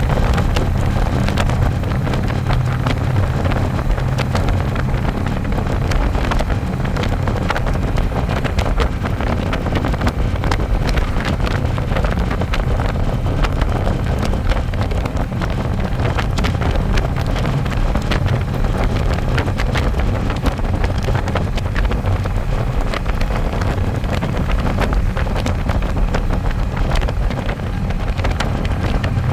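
Harley-Davidson Electra Glide's V-twin engine running steadily on the road, with wind buffeting the microphone throughout.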